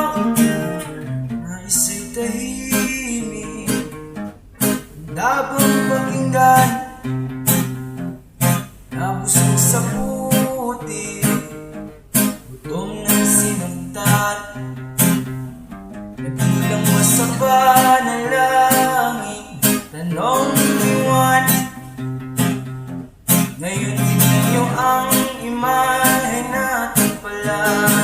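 Acoustic guitar strummed in a steady rhythm, an instrumental passage between sung lines of an acoustic song.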